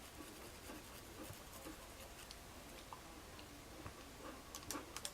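Faint scratching and small clicks of a toothbrush in a dog's mouth, with a few sharper ticks near the end.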